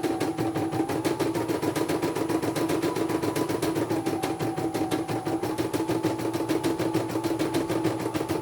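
Computerized embroidery machine stitching: rapid, even needle strokes over a steady motor hum, the running pitch stepping up about a second in and back down about four seconds in.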